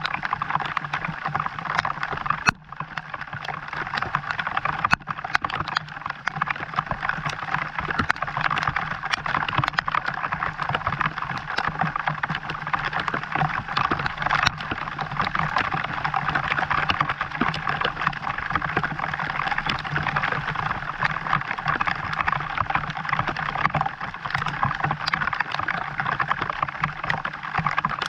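Steady rain pattering, a dense crackle of many small drops, with one sharp click about two and a half seconds in.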